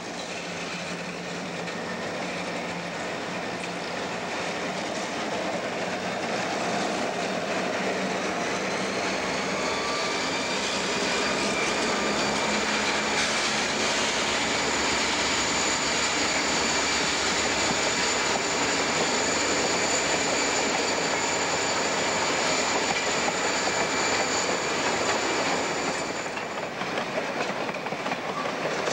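An Algoma Central ore train passes close by: the SD40 diesel locomotives run past first, then the empty ore cars roll on with a steady rattle of wheels on the rails. A steady high-pitched wheel squeal joins about ten seconds in and stops a few seconds before the end.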